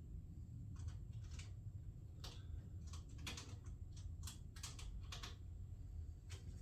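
Faint, irregular light clicks and taps of a fender shroud and its small bolts, washers and clips being handled and lined up for fitting, over a faint low hum.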